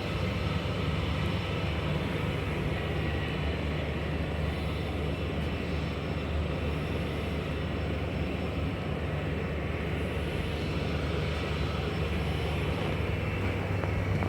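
Steady low drone with an even airflow hiss inside a Boeing 747-400 cockpit, the background noise of the aircraft's running systems.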